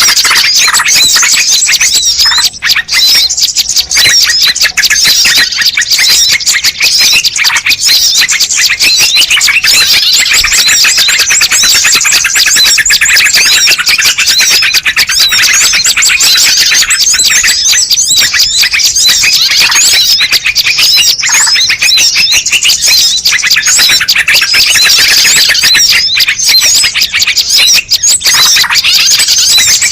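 Bird-lure recording: a dense chorus of many small birds chirping and twittering rapidly and without a break, loud and high-pitched.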